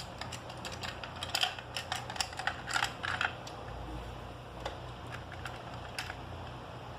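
Small plastic toy pieces clicking and knocking together as toy cups are worked into and out of the slots of a plastic tray: a quick run of clicks in the first three seconds, then a few scattered ones.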